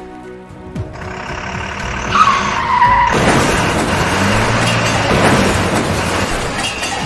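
Dubbed sound effect of tyres skidding: a short falling squeal, then a loud noisy rush lasting about four seconds.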